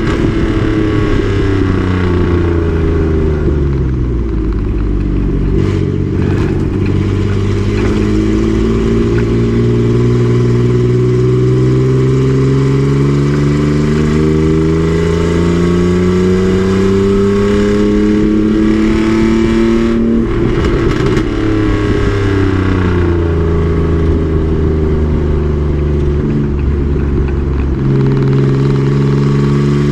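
Race truck's engine at speed on track: the pitch falls at the start as it slows, then climbs steadily for about fifteen seconds under full throttle. About twenty seconds in it drops with a gear change and then holds nearly steady.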